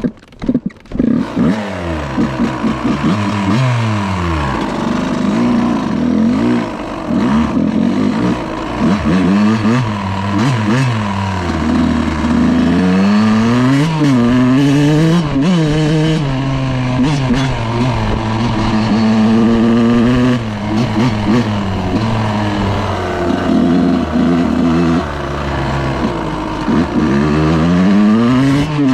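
Dirt bike engine ridden hard, revving up and dropping back again and again as it shifts through the gears.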